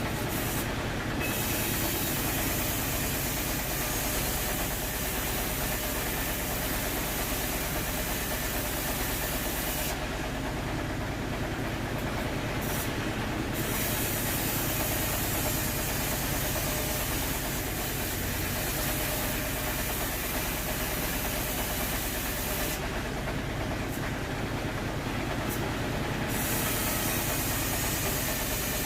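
Sawmill machinery running steadily: a continuous mechanical drone with hiss. The hiss drops away briefly about ten seconds in and again near the end.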